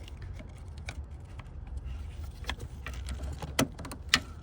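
Scattered small, sharp plastic clicks and taps as a pick tool works a plastic EVAP line quick-connect clip, with two louder clicks near the end, over a steady low hum.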